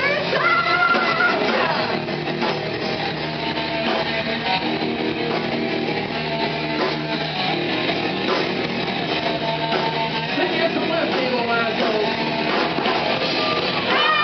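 Rock band playing live: guitar-led music with singing near the start.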